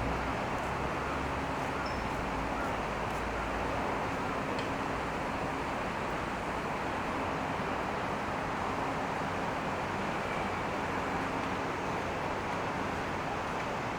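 Steady city street traffic noise, an even rush of passing vehicles with a faint low engine hum beneath it.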